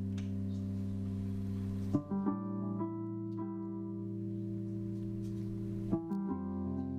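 Instrumental song intro from a live band: a keyboard holds sustained chords, changing to a new chord about two seconds in and again about six seconds in.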